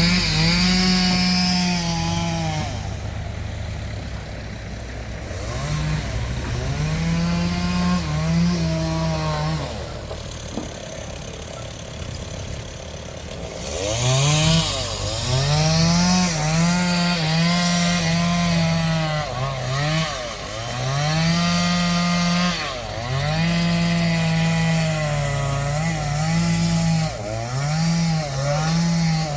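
Two-stroke chainsaw cutting wood, its engine revving up and dropping back again and again. It eases to a lower, quieter run for a few seconds in the middle before revving hard again.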